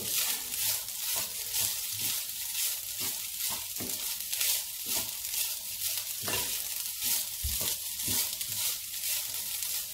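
Fried rice sizzling in oil in a nonstick frying pan while a wooden spatula stirs through it: a steady sizzle with repeated scrapes and taps of the spatula.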